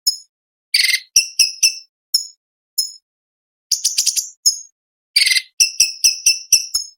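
Cucak cungkok (orange-bellied leafbird) singing: quick clusters of short, sharp, high chirps with harsh rasping chatter mixed in, broken by brief pauses.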